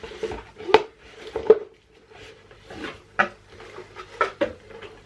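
A box and its packaging being handled and unpacked: a string of sharp knocks and clicks, the loudest a little under a second in and at about a second and a half, with light rustling between.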